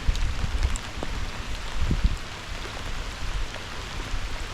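Steady hiss of rain falling, with irregular low rumbling bumps and a couple of thumps, about two seconds in the loudest.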